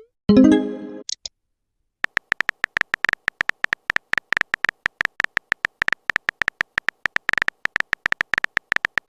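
A short message-notification chime with a rising swoop in the first second. From about two seconds in comes a fast, irregular run of short clicks, a phone-keyboard typing sound effect, running to the end.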